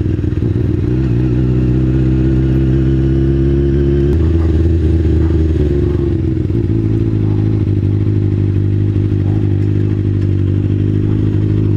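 2003 Kawasaki ZX-6R's 636 cc inline-four engine running at a steady pitch while riding, held in third gear because the broken shift linkage won't let it upshift. The engine note changes abruptly about four seconds in, then runs on steadily.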